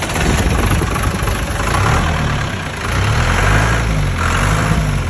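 John Deere tractor engine running just after starting, its speed rising and falling a couple of times.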